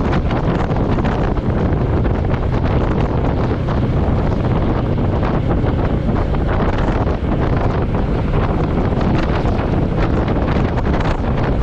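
Steady wind buffeting the microphone on a moving motorcycle, with the Royal Enfield Meteor 350's single-cylinder engine running underneath.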